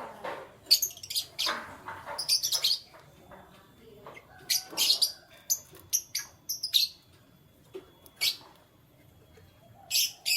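Canaries chirping in several short bursts of sharp, high calls, with quiet gaps between the bursts.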